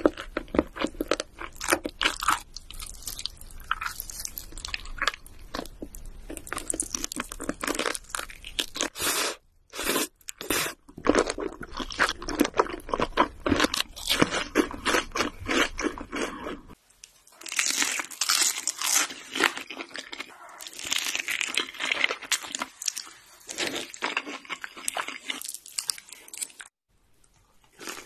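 Close-miked crunching and chewing of crisp food: rapid, irregular crackling bites and chews with a short pause about ten seconds in. About two-thirds of the way through the background hum drops out and the crunching continues with a brighter, crisper sound.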